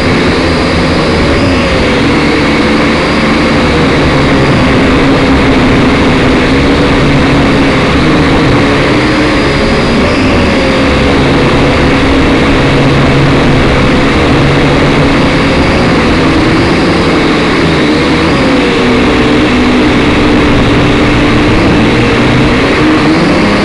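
Syma X5SC quadcopter's small motors and propellers whining close up, as heard from its onboard camera. The pitch wavers up and down as the motor speeds change, over heavy wind buffeting.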